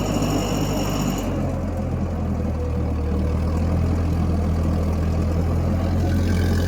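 1956 Massey Ferguson F40 tractor's four-cylinder engine running steadily under load, pulling a heavy tire on a strap. About a second in, a high whine drops out and the engine note shifts.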